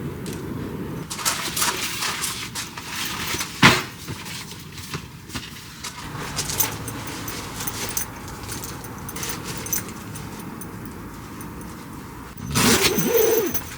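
Handling noises: scattered clicks and rustles, a single sharp knock a few seconds in, and a short scraping squeak with a wavering pitch near the end.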